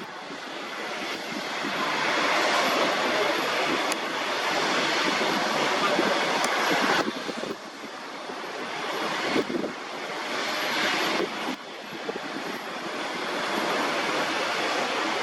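Propeller airliner's engines running: a steady rushing drone that dips briefly twice, about seven and a half and eleven and a half seconds in.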